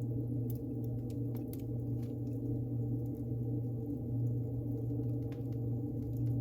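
Wood fire burning in a fireplace, crackling with irregular small sharp pops over a steady low hum.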